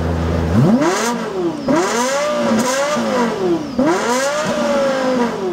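Lexus LFA's V10 engine revved repeatedly from idle while parked, its pitch rising and falling several times in quick succession. The last rev dies away slowly near the end.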